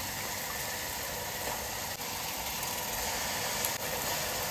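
Spice masala sizzling steadily in hot mustard oil in a kadhai as spoonfuls of yogurt are added, with a light tap or two near the end.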